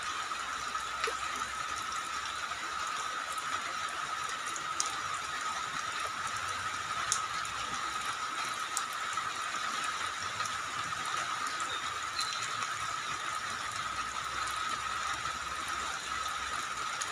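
Steady rain falling, with scattered sharp drop ticks and a thin steady high tone running underneath.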